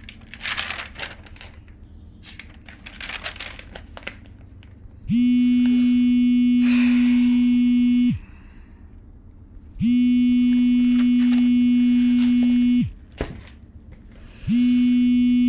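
A phone ringing: a buzzy, steady electronic tone held about three seconds at a time, sounding three times with short pauses between. Before it, in the first few seconds, there are a few short rustling noises.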